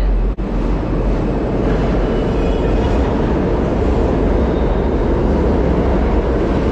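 New York City subway train running, a loud steady rumbling noise, with a brief break in the sound about half a second in.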